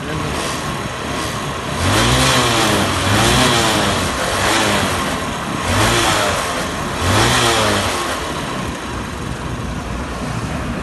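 Vehicle engine idling and being revved about five times in quick blips, each rev rising and falling back to idle.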